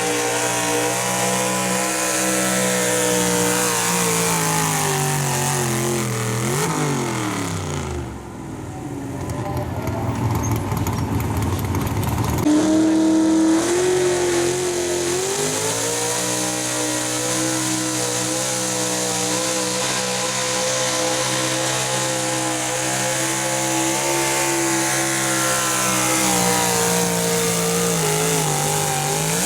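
Super stock two-wheel-drive pulling truck's engine running at high revs under load. Its pitch sags after about four seconds and drops to a low rumble for a few seconds. About twelve seconds in it comes back suddenly at high revs and holds steady, falling away at the very end.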